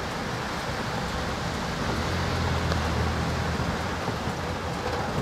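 Heavy rain hissing steadily, with a vehicle's engine humming low underneath that grows a little stronger about two seconds in.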